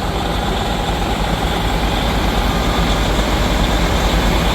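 Heavy truck engine running steadily with a low, even drone.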